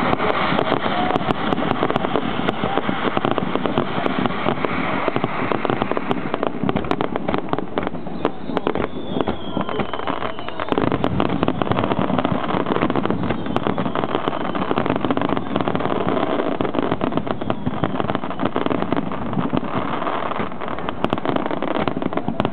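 Large fireworks display: a dense, continuous mass of shells bursting and crackling.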